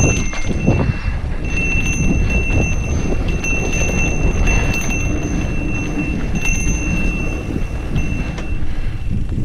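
Mountain bike riding over a dirt trail: a steady low rumble and rattle with wind on the microphone. A thin, high ringing tone starts and stops several times over it.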